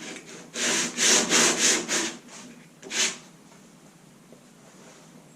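Hand sanding Bondo body filler with 80-grit sandpaper: about five quick back-and-forth strokes, then a single stroke about a second later.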